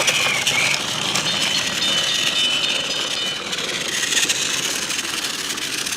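Battery-powered TrackMaster toy train running along plastic track, its small motor whirring and wheels rattling steadily.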